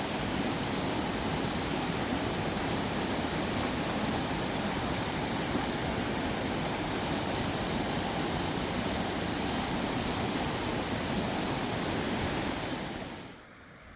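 Mountain river rushing over rocks: a steady, full wash of water that drops away abruptly near the end.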